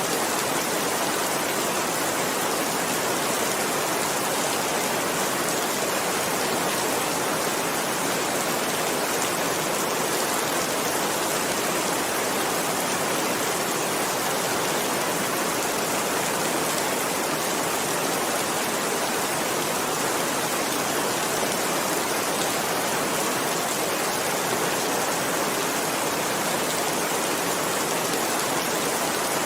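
Heavy rain falling steadily: an even, unbroken hiss of countless drops, with no single drops or thunder standing out.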